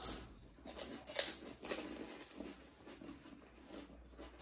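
Mouth noises of eating panipuri: crisp, hollow fried puri shells crunched and chewed. A few sharp crunches come in the first two seconds, the loudest about a second in, then softer chewing.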